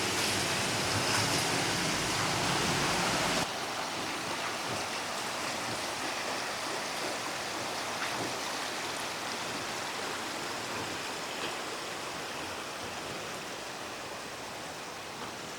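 Rushing water from a stream or river, a steady hiss. It drops suddenly to a quieter level about three and a half seconds in, then fades slowly.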